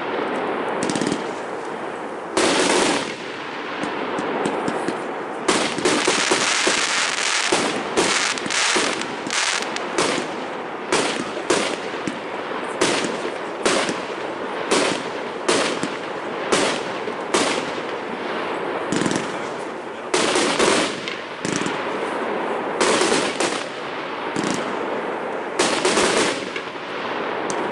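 Fireworks going off: a steady crackle with sharp bangs in quick succession, coming roughly every half second to a second.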